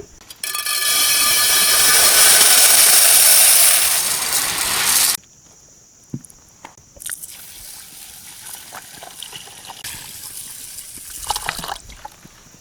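Water being poured: a strong pour lasting about five seconds that stops abruptly, then a quieter, lighter pour with a few small knocks.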